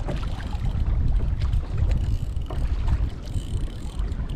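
Wind buffeting the microphone with a steady low rumble, over water sounds around a kayak at sea, with a few faint clicks.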